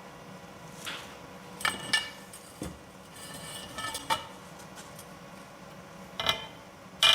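Scattered sharp metallic clinks and taps of steel tools and parts, each with a short ring. Right at the end a loud, ringing metallic sound begins.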